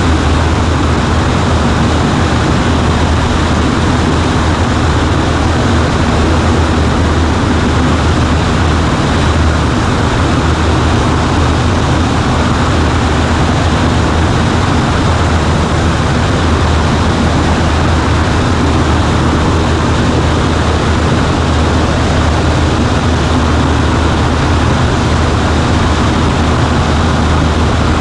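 Cessna 140A's piston engine and propeller droning steadily inside the cockpit, with a strong low hum and a dense rush of air noise over it; the power setting does not change.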